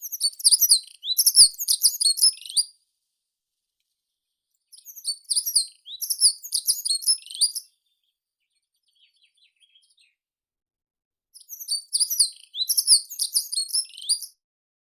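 A songbird singing three bouts of quick, high twittering song, each about three seconds long, separated by short pauses.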